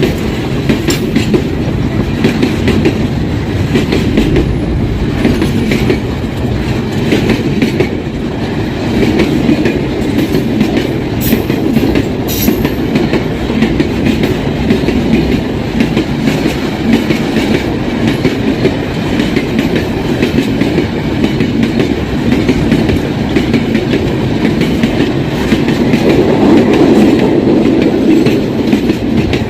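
Empty freight wagons of a train rolling past, their wheels clacking steadily over the rail joints, a little louder near the end.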